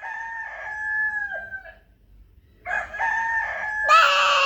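A child imitating a rooster's crow with his voice, twice: two long, high, held cock-a-doodle-doo calls, the second louder toward its end.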